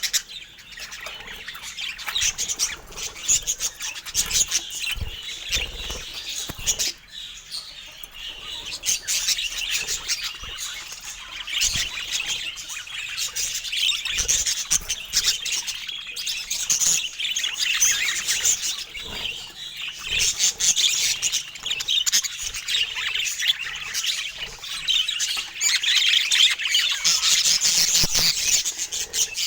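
Budgerigars chattering and chirping without a break, a busy mix of short chirps and squawks that gets busiest near the end.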